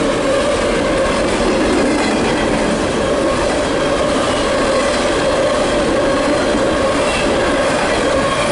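Empty coal hopper cars of a CSX freight train rolling past close by: a loud, steady rumble of steel wheels on rail with a sustained ringing tone over it.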